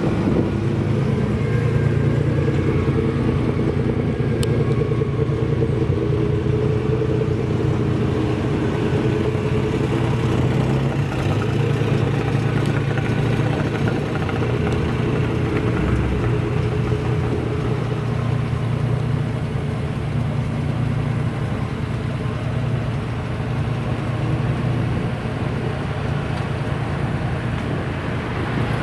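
Classic car's engine running steadily at an even, unchanging pitch, with no revving.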